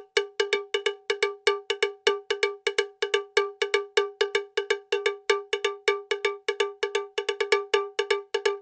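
Rapid, even series of cowbell-like metallic strikes, about five a second, each a short clank at the same pitch. It starts abruptly and runs on as an added sound effect.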